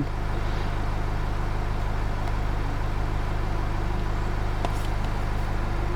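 Steady low drone inside the cabin of a parked Chrysler Grand Voyager MPV with its power on.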